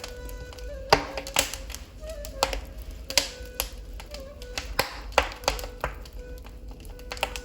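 Wood fire in a fireplace crackling, with irregular sharp pops of burning logs, over a low held flute tone, typical of a ney, that wavers slightly in pitch.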